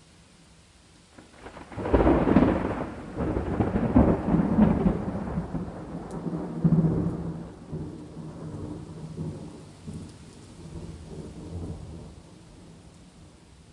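A loud thunderclap breaks about two seconds in and rolls on as a rumble that slowly fades away over the next ten seconds, over faint steady rain.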